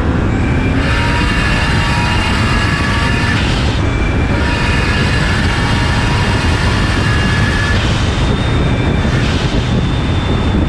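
Turbocharged 1JZ inline-six under full throttle in a hard pull, loud and steadily climbing in pitch, with a brief break about four seconds in before it pulls again.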